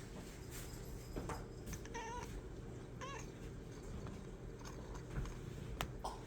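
Domestic cat making a few short meows with a wavering pitch, the two clearest about two and three seconds in, over a steady low hum.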